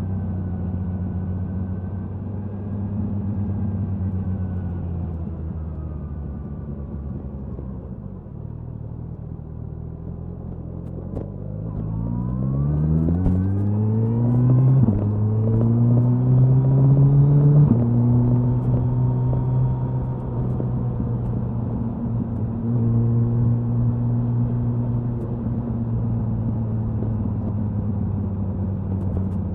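Suzuki Hayabusa inline-four exhaust at cruise, easing off for a few seconds. It then accelerates hard, the pitch climbing, with two quick upshifts about midway, and settles back into steady high-speed cruising. There is wind rush under the exhaust.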